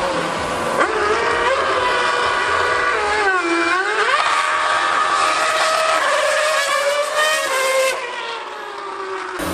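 2013 V8 Formula 1 car's engine running at high revs. Its pitch climbs in steps in the first seconds, swoops down and sharply back up about three and a half seconds in, then holds and slowly falls away, getting quieter after about eight seconds.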